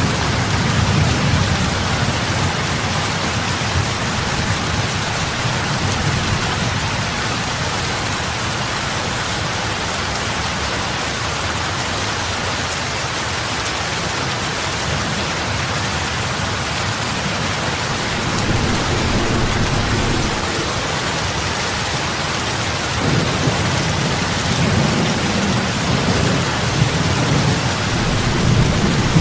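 Heavy rain falling steadily on a lake's surface: a dense, even hiss of drops hitting water. Under it runs a deep low undertone that thins in the middle and swells again over the last several seconds.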